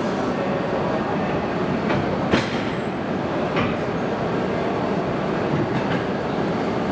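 Shinkansen train noise: a steady rumble with a few sharp clicks, the loudest about two and a half seconds in.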